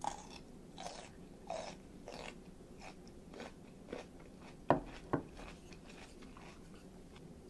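A person biting into a shrimp and chewing it: a run of short, wet chewing noises about twice a second, with two sharp clicks about five seconds in that are the loudest sounds.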